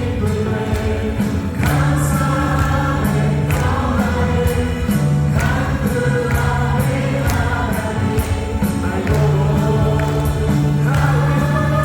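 Live worship band playing a praise song, with keyboards, drums and cymbals, and a group of vocalists singing.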